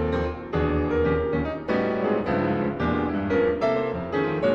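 Piano playing a steady run of struck chords and notes, about two a second.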